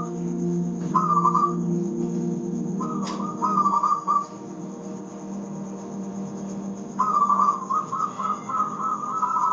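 Zebra dove (perkutut) cooing in phrases of quick, rapidly repeated high notes, three phrases with the longest near the end. Under it, soft sustained instrumental tones fade out about halfway through.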